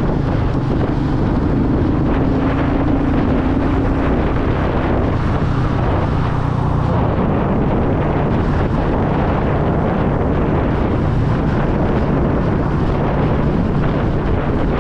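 Royal Enfield Meteor 350's single-cylinder engine running steadily while under way, with heavy wind buffeting on the microphone.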